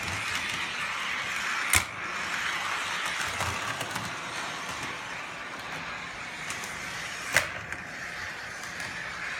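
MTH bump-and-go trolley running on three-rail RealTrax track with a steady whir, broken by two sharp clacks about five and a half seconds apart.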